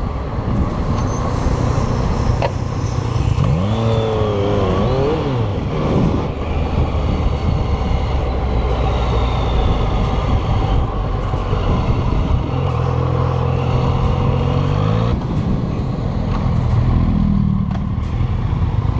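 Motorcycle engine running while riding in traffic, with road and wind noise. The engine pitch swings up and down a few seconds in and climbs again later, as the revs change.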